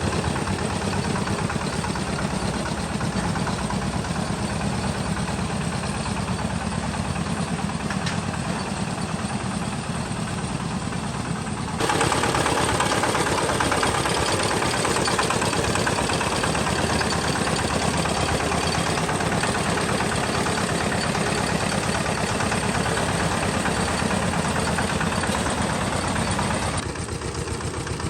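Tractor engine running steadily. The sound jumps abruptly louder and brighter about twelve seconds in and drops back just as suddenly near the end.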